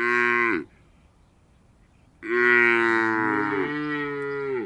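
Cow mooing twice: a short moo at the start, then a long, drawn-out moo of about two and a half seconds starting about two seconds in.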